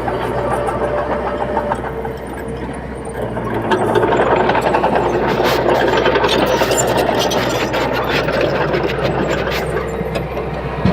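A bulldozer's diesel engine runs steadily and gets louder about four seconds in, as if taking load, with scattered metallic clanks.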